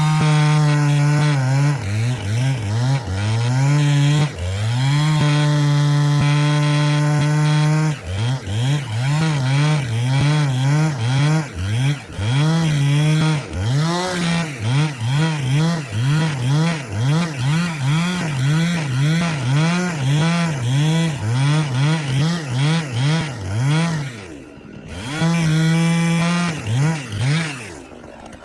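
Two-stroke chainsaw engine running at high revs while cutting oak. The pitch is held steady at first, then dips and recovers about twice a second. It drops away briefly near the end, then revs again.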